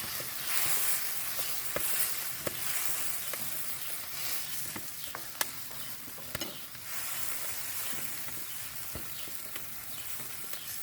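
Eggs and vegetables sizzling in hot oil in a wok while a wooden spatula stirs them, with scattered light clicks and taps of the spatula against the pan.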